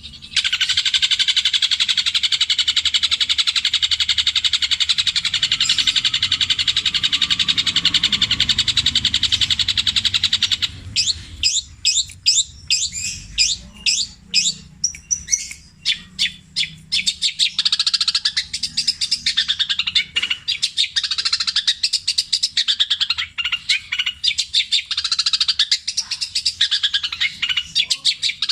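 Long-tailed shrike (cendet) singing a song built from mimicked calls of other birds. It opens with about ten seconds of rapid, unbroken chattering. Around the middle it switches to a run of separate sharp notes, a little more than two a second, then returns to fast, varied warbling.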